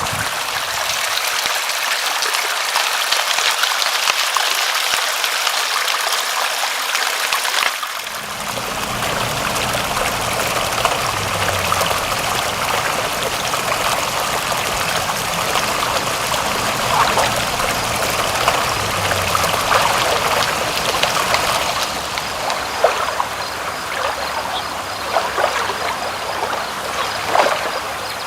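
Water flowing and trickling steadily. The sound changes abruptly about eight seconds in and gains a fuller, lower tone, and single drips or splashes stand out near the end.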